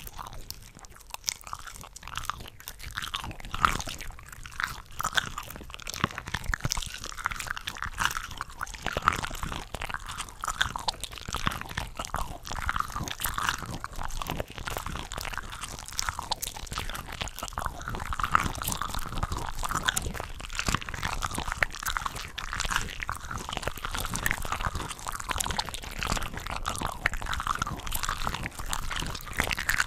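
Close-miked chewing and biting of cooked shrimp from a shrimp cocktail ring: a dense, continuous run of wet, snappy bites and mouth smacks. Several eating tracks are layered over one another, so the bites overlap without pause.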